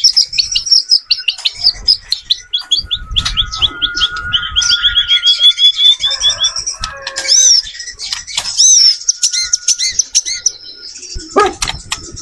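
White-rumped shama singing a fast, varied song: rapid runs of repeated chirps and trills, then looping whistled notes, with a sharp falling note near the end.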